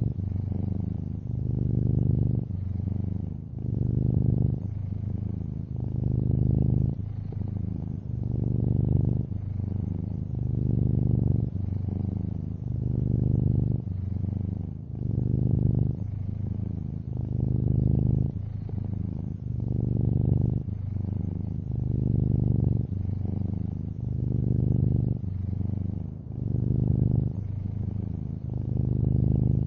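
Long-haired orange tabby cat purring steadily in a low rumble, swelling and easing with each breath about every two seconds.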